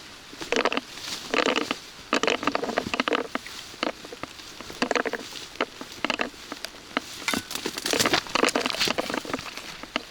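Rain pattering close to the microphone, with irregular taps and short crackling clusters coming every second or so.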